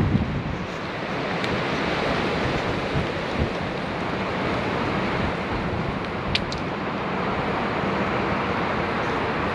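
Steady rushing of wind buffeting the microphone, with waves washing at the water's edge. A brief sharp click comes about six seconds in.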